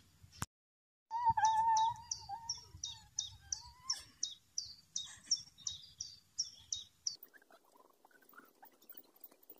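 A small bird calling a short falling chirp over and over, about three times a second, for several seconds before it cuts off abruptly. A louder wavering lower tone runs under the first second of chirping, and after the cut only faint scattered chirps and low noise remain.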